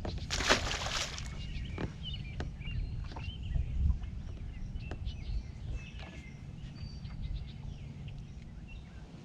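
Wind rumbling on the microphone, with birds chirping on and off and a brief loud hiss about half a second in.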